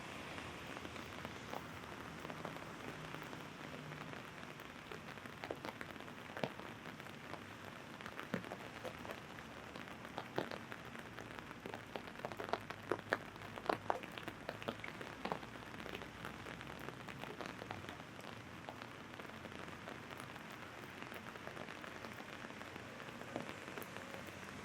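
Rain drumming on an umbrella overhead: a steady patter with sharper, louder drops falling on it, heaviest about halfway through. A faint low hum, like distant traffic, sits underneath.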